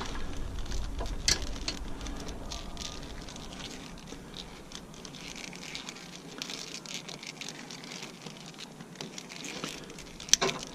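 Hands wrapping plastic around hydraulic hose couplers: a steady run of small crinkling rustles and clicks, with a low rumble that fades out in the first few seconds.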